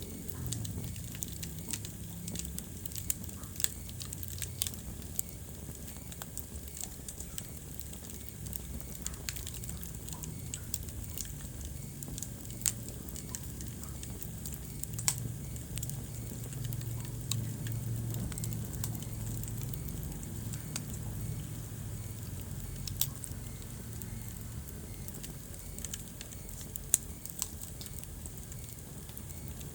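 Wood fire burning in a fireplace: a steady low rumble of flames with irregular crackles and a few sharp pops.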